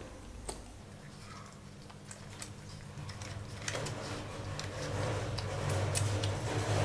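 Close-miked eating sounds: scattered wet clicks and smacks of chewing, and of fingers handling saucy food pieces. Low background music comes in about a second in and grows steadily louder toward the end.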